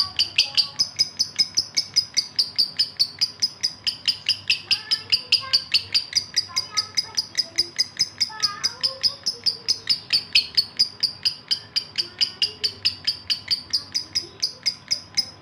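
Male lovebird in breeding condition calling for a female: a long unbroken series of high, sharp chirps, about five a second, which breaks off suddenly at the end.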